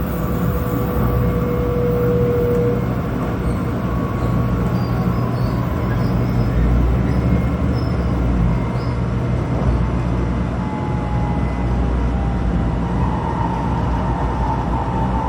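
Cabin noise of a 700-series Shinkansen train running at speed: a steady low rumble with a faint electric motor whine drifting slightly in pitch.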